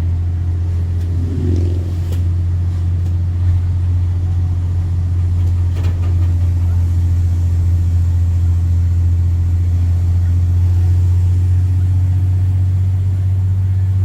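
Straight-piped Cummins C8.3 inline-six turbo diesel of a school bus running at a steady speed: a deep, even drone with no big changes in revs. A few light clicks and rattles come through around two seconds and six seconds in.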